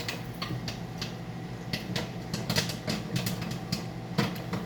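Microwave popcorn kernels popping inside a running microwave oven: irregular sharp pops, a few a second, over the oven's steady hum.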